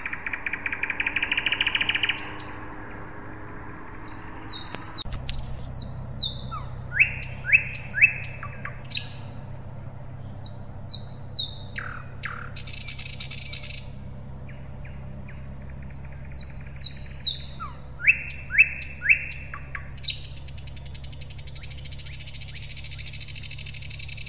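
Bird calls: short chirping notes in repeating phrases, the same phrases coming back several times, over a steady low hum, with a fast buzzing trill in the first two seconds and stretches of high hiss later on.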